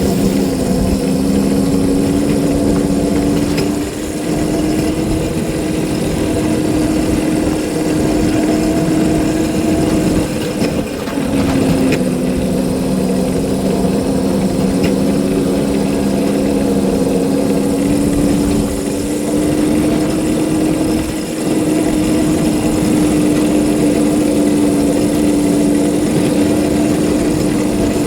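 A small railroad locomotive's engine running steadily as it pushes a snow plow along the track, its pitch rising and falling gently, with a few brief dips in level.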